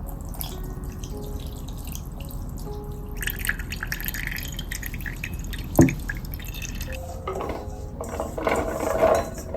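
Water dripping and splashing at a sink, with a single sharp knock a little before six seconds in and a louder patch of splashing near the end.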